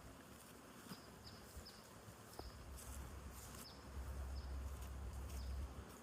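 Small birds chirping in short, high, falling notes, several times over. A low rumble comes in about halfway and is loudest near the end.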